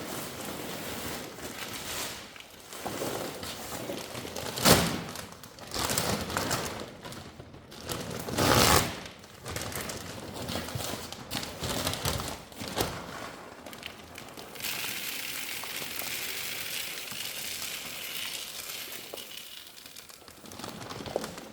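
A sack of sheep feed being opened and handled: crinkling and rustling with irregular knocks, the loudest about five and nine seconds in. Later comes a steady rushing hiss of a few seconds, as feed pellets are poured.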